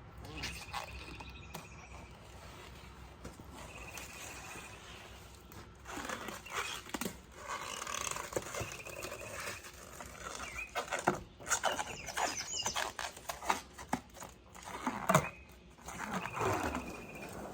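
Plasti-Dip rubber coating being peeled off a truck's paint by hand: irregular crackling, tearing rips, busier and louder from about midway. A bird's short trilled call repeats every few seconds behind it.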